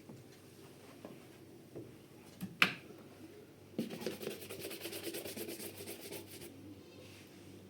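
A single sharp click or knock, followed about a second later by a few seconds of rapid, evenly repeated scraping or rubbing strokes.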